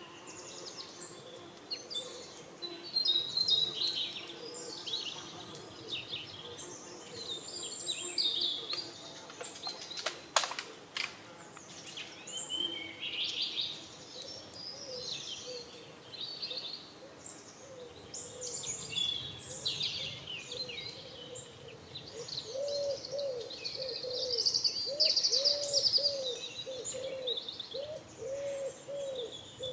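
Small birds chirping and twittering throughout, with a run of repeated low arched cooing notes in the last third, typical of pigeons. A single sharp click about a third of the way in.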